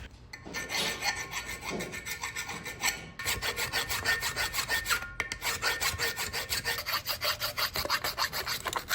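Hand file rasping on metal in quick, regular strokes, with short pauses about three and five seconds in: deburring a snug fit so the control handle will slide onto the rod.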